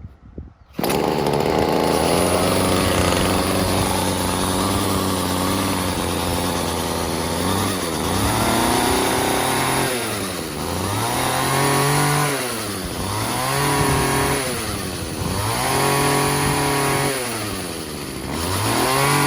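Poulan two-stroke pole saw engine running: it cuts in suddenly about a second in and runs at a steady speed, then is revved up and down about every two seconds.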